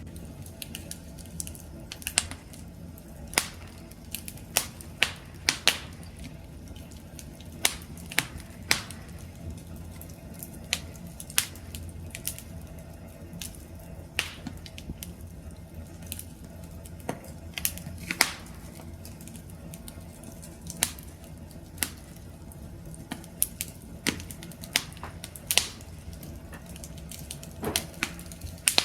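Wood fire crackling: irregular sharp pops and snaps of burning wood over a low steady rumble of flame.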